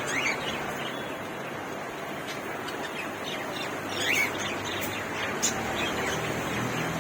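Caged birds chirping over a steady background of bird chatter, with louder short rising calls just after the start and about four seconds in. A single sharp click comes about five and a half seconds in.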